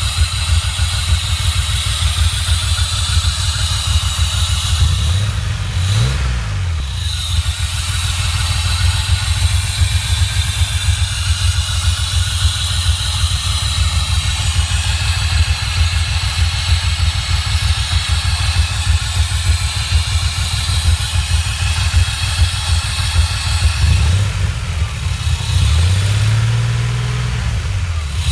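DeLorean DMC-12's PRV V6 engine running with a metallic grinding noise and a high steady whine over the engine note, the sign of a fault that is costing it power. The engine speed rises and falls about six seconds in and again near the end.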